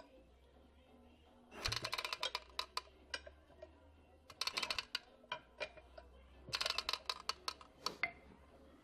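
Three bursts of rapid metallic clicking and rattling from the Staub PP6D two-wheel tractor's mechanism, starting about one and a half, four and a half and six and a half seconds in: the odd noise whose cause the owner cannot identify.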